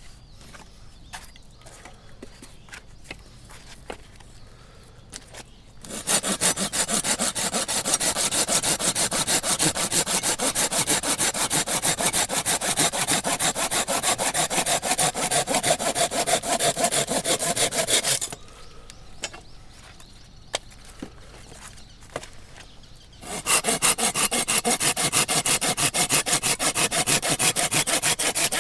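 Hand saw cutting through a firewood log in quick, even strokes, in two spells: one of about twelve seconds starting some six seconds in, and another starting about five seconds after it stops. Before and between the spells there are only faint small knocks.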